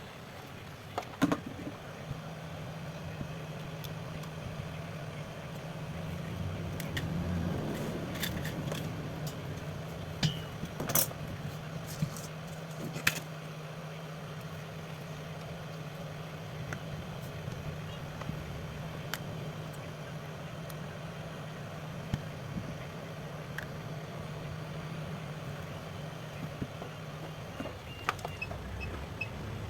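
A steady electric hum, switched on about two seconds in and off near the end, with a few sharp clicks and taps of tools on a phone.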